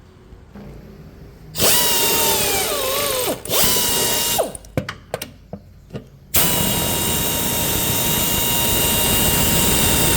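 Power wrench tightening the bolts of new stabilizer bar bushings: a run whose whine drops in pitch as the bolt takes up, a second short run, several quick blips, then a long steady run through the second half.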